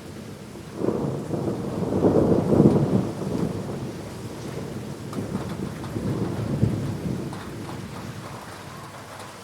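Thunder rumbling over steady heavy rain. The roll starts suddenly about a second in, is loudest a second or two later, swells again near seven seconds, then dies away under the hiss of the rain.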